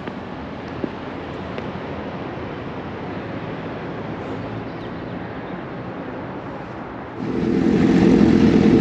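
Sport motorcycle engine running steadily under wind noise. About seven seconds in, a much louder engine sound cuts in abruptly.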